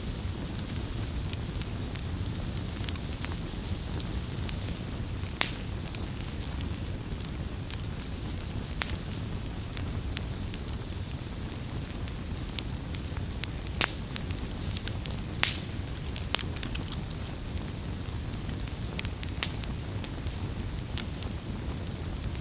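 Wood campfire crackling: irregular sharp pops and snaps over a steady low rumble of burning, with a few louder pops about halfway through.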